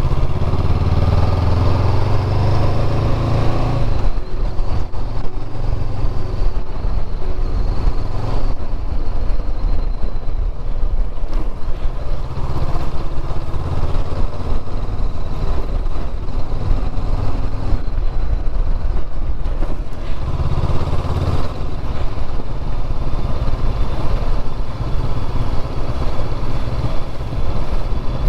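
Motorcycle engine running while riding, its low note swelling and easing in stretches as the throttle opens and closes, over steady road and wind noise.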